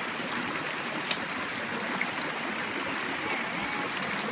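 Creek water running steadily, with one sharp click about a second in.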